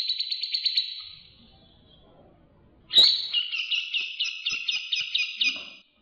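Recorded songbird calls for bird-song training. A rapid chattering trill fades out about a second in. After a short gap, a click starts another fast run of repeated notes, which cuts off abruptly near the end.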